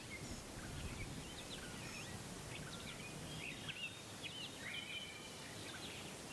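Quiet outdoor ambience of several small birds chirping and whistling in short scattered calls, over a steady low background rumble.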